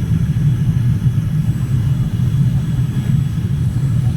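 Steady low drone inside the cabin of a Boeing 787-10 airliner in flight, engine and airflow noise heard from a passenger seat during the descent.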